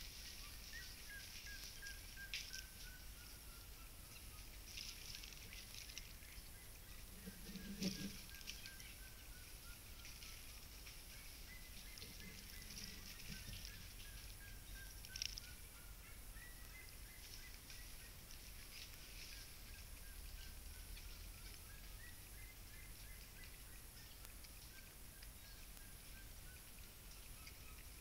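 A bird calling over and over, each call a thin whistle that slides downward over a second or two, repeated every few seconds. A few light clicks and a soft thump partway through.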